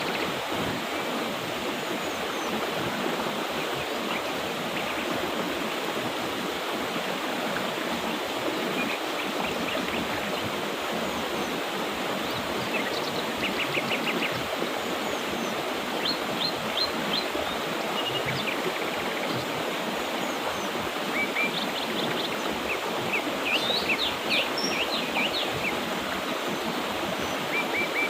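Mountain river rushing steadily over rocks, with small birds chirping now and then above it, more often in the second half.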